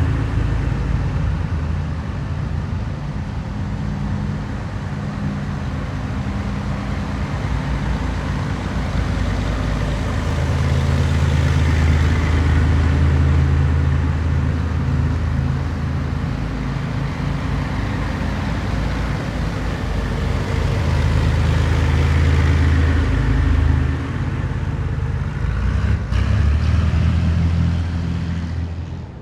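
A column of heavy military vehicles driving past one after another, a continuous deep engine drone with tyre and road noise that swells as each vehicle nears and eases as it moves off.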